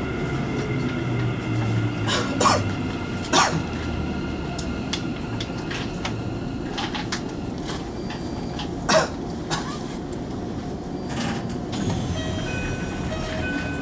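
Keikyu New 1000 series electric train running, heard from the driver's cab: steady running rumble with a few thin steady motor tones, and several sharp clicks scattered through it.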